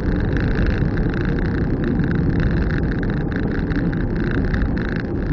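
Car driving at a steady pace: continuous engine and tyre noise with no change in level.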